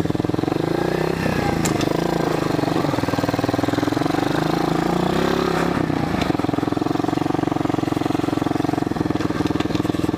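Pit bike engine running under way, its revs easing off and picking up again twice.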